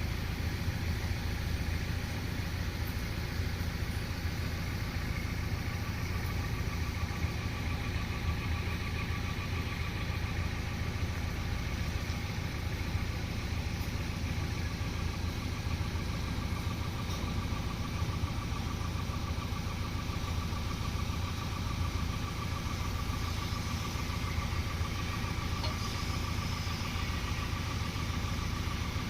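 Heavy diesel engine running steadily at low speed, with a faint steady whine above its rumble.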